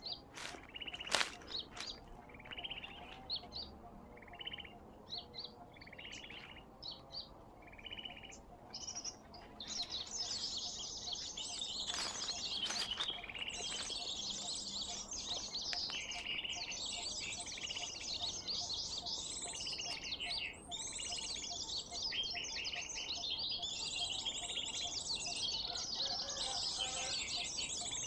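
Sunbird calls played as a bird-trapping lure: separate sharp chirps for the first ten seconds, then a dense, continuous high twittering from about ten seconds in.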